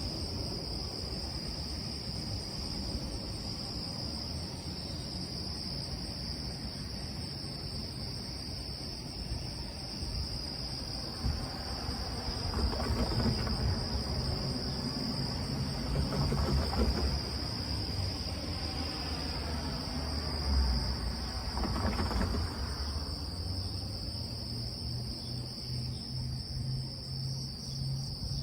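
A steady, high-pitched insect chorus runs over a low rumble. The rumble swells into a louder, noisier stretch in the middle, and a low steady hum comes in near the end.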